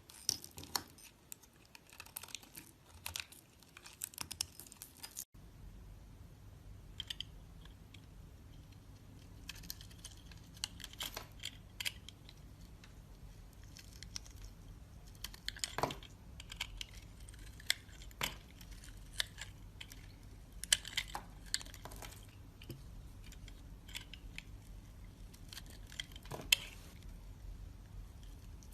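Soap crunching and crackling: irregular crisp clicks and crunches, a few sharper ones standing out. A low steady hum comes in underneath about five seconds in.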